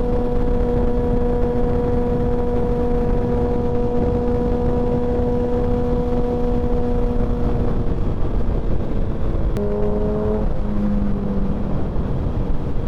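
Motorcycle engine holding a steady high pitch at cruising speed, under heavy wind rush on the microphone; about eight to ten seconds in the engine note drops lower as the bike slows.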